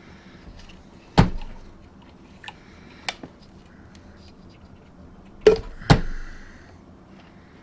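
Sharp knocks and clacks of hands working on a chainsaw and handling tools and parts: one about a second in, a couple of lighter ones around three seconds, and a loud close pair about five and a half seconds in.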